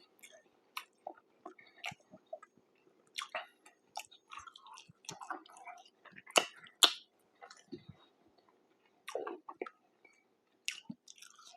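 Close-miked chewing and biting of fast food: scattered wet clicks and crunches, loudest a little past the middle.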